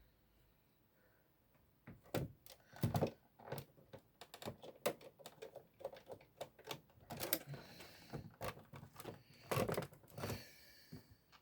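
Irregular clicks and knocks from about two seconds in, as a screw is driven in with a screwdriver and the original Xbox's plastic and metal parts are handled and pressed down.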